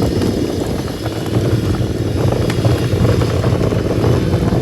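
Steady rumble with constant small rattles and clicks of a kids' ride-on tractor being towed by a lawnmower over a rocky lane.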